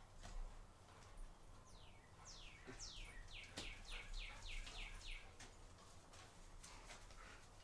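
A bird singing a run of about ten quick downslurred whistled notes that come faster toward the end, faint against a low outdoor rumble.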